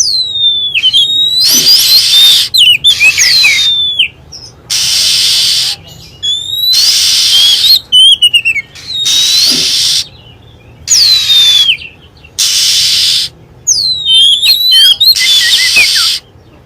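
Oriental magpie-robin lure-call recording: clear whistled notes that sweep up and down, alternating about every second with long harsh, rasping calls.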